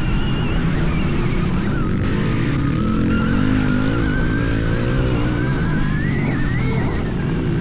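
Stark Varg electric motocross bike's motor whining as it is ridden, the pitch wavering with the throttle and climbing near the end before dropping back, over a steady low rumble.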